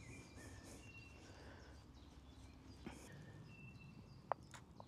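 Near silence, with faint short bird calls now and then and one sharp click a little after four seconds in.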